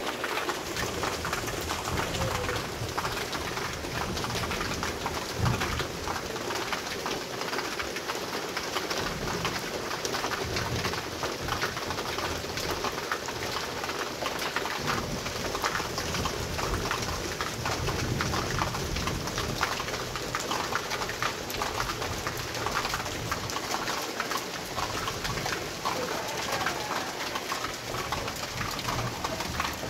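Heavy rain of a storm falling steadily, a dense hiss full of fine drop ticks, with low rumbles now and then.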